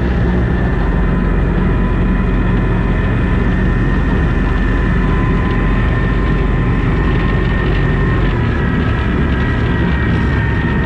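A boat's engine running steadily at close range, a continuous low hum with a steady whine above it; the lowest hum shifts slightly about eight seconds in.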